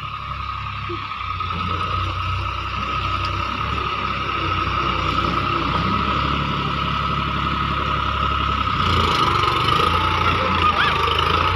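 Tractor engine running steadily, with a steady higher-pitched hum over its low rumble; it gets a little louder about nine seconds in.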